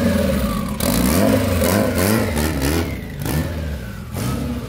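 Engine of a turbocharged Acura Integra revving up and down several times as the car pulls away.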